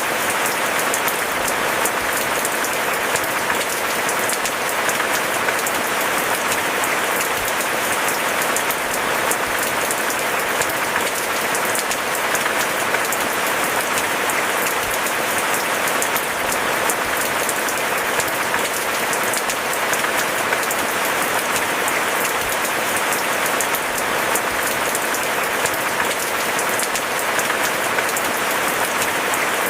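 Steady rain, a dense, even patter of drops with no thunder.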